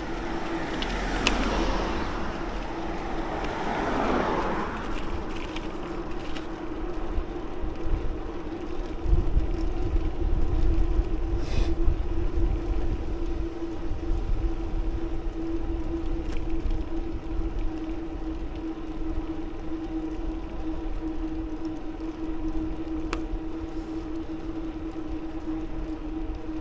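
Road noise on a moving bicycle: wind rumbling on the microphone over a steady hum. A vehicle passes in the first few seconds, swelling and fading.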